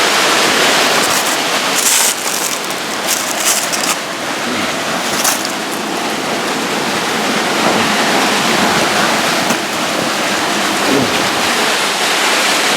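Close, steady rush of a small waterfall pouring into a pool in a mountain stream. A few brief, sharp clicks sound between about two and five seconds in.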